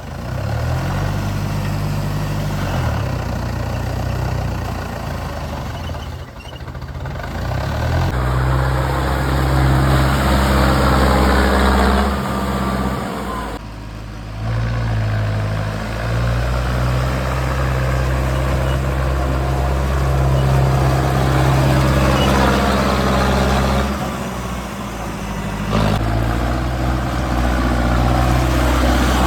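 Mahindra Arjun Novo tractor's diesel engine running steadily, its pitch and load shifting several times, with brief drops in level.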